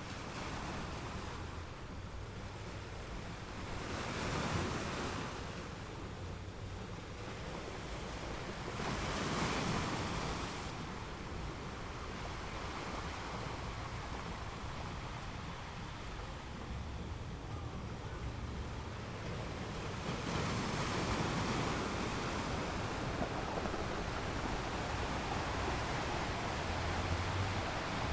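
Ocean waves washing onto a shore, a steady rush of surf that swells louder about four and nine seconds in and again from about twenty seconds in.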